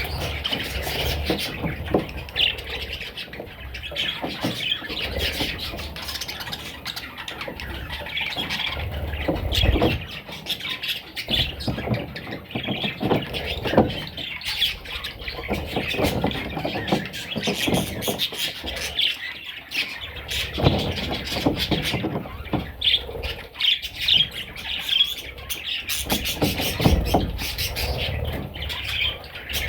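Budgerigar chicks chirping and squawking over and over, many short calls packed close together, with occasional low bumps underneath.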